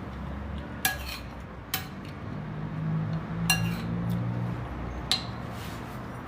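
Cutlery clinking against a bowl or plate while eating: four sharp clinks with a brief high ring, spaced a second or two apart.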